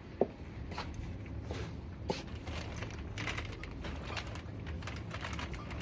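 High-heeled boots clicking on a hard shop floor, two last steps near the start and about two seconds in. From about half-way, a crinkling, rustling noise takes over.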